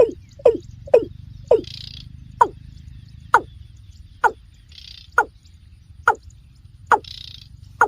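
Water cock calling: a steady series of short, falling notes, about two a second at first, slowing to about one a second.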